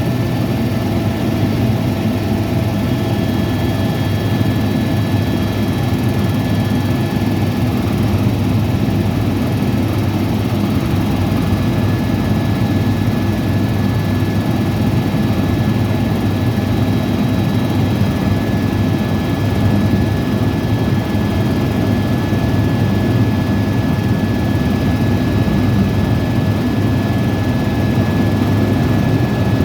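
Airbus EC130T2 helicopter running steadily, its Arriel 2D turboshaft and rotor heard as a dense low rumble with a steady high whine over it.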